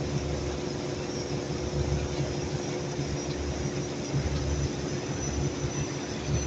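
Heavy unloading machinery running steadily: a low engine rumble with a constant drone and no distinct impacts of stones.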